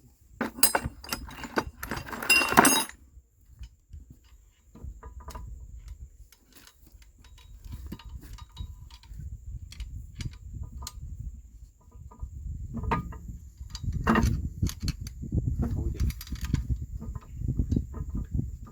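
Metal tools and parts clanking and clinking during hand repair work. There is a loud burst of ringing metal clatter in the first few seconds, then scattered clicks and knocks over a low rumbling noise that grows in the second half.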